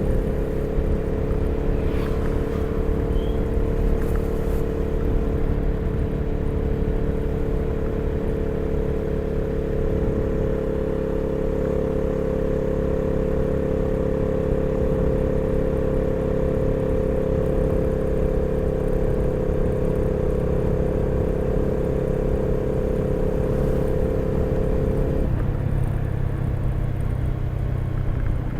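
Honda CB300R's single-cylinder engine running steadily while the motorcycle is ridden. Its note changes about 25 seconds in, the higher tone falling away and a deeper one taking over.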